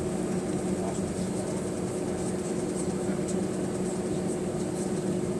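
Steady drone of an Airbus A320's CFM56-5A engines and airflow heard inside the cabin near the tail, with a constant low hum and a few faint ticks.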